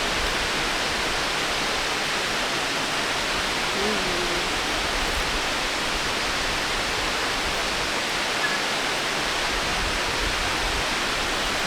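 Steady, even rush of falling water from a waterfall, unchanging throughout.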